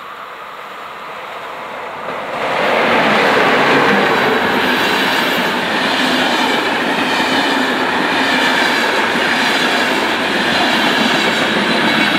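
Passenger train hauled by an electric locomotive approaching and passing close by. The sound grows louder at first, then from about two and a half seconds in becomes a loud, steady rush of wheels on rail as the coaches go past.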